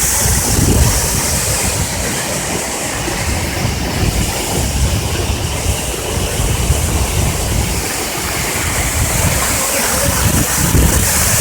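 Monsoon waterfall pouring, a steady rush of falling water with a low rumble underneath.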